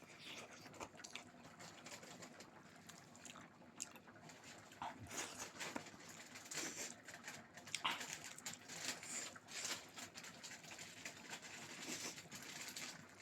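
Eating sounds during a mukbang of rice with pork curry: chewing, with irregular soft smacks and clicks.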